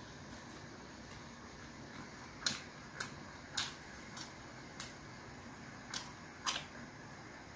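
Mouth clicks and smacks of a man chewing a mouthful of bibimbap: about seven short, sharp clicks at uneven intervals, starting a couple of seconds in, over a faint steady hum.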